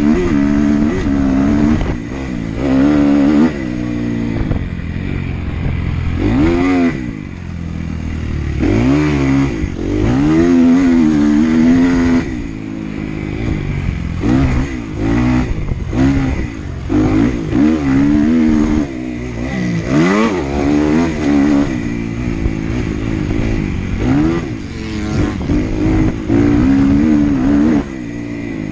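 Dirt bike engine revving hard and backing off over and over, its pitch climbing and falling every second or two, with a few sharp drops to a lower pitch.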